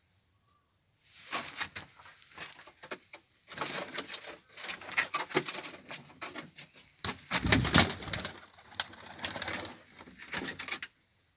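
Domestic high-flyer pigeons cooing among a dense run of short scuffling and clicking noises. The loudest burst comes about two-thirds of the way through.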